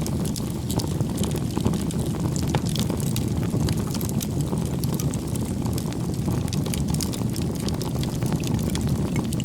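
Campfire of burning logs: a steady low rumble of flames with frequent irregular crackles and small pops from the wood.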